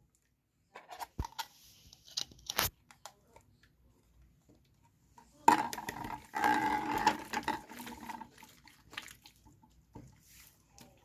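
Slime being squeezed and poked by hand, giving short wet clicks and pops, then a louder stretch of dense squelching and crackling a little past the middle.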